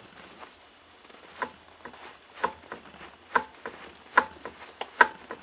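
Sharp metallic knocks, about one a second, starting a second or so in, each with a short ring: the worn camshaft of a ZAZ/Daewoo Lanos engine knocking against its rocker arms as the shaft is turned by hand. This is the engine knock that the owner traces to the worn camshaft and rockers.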